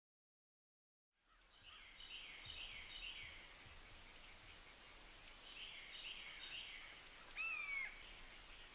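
Faint outdoor ambience with wild birds chirping in scattered short clusters. About three-quarters of the way in comes one louder call that bends downward in pitch. The sound fades in after about a second of silence.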